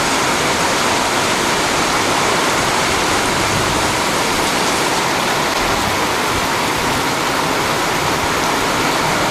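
Torrential rain coming down very hard as a steady, dense hiss.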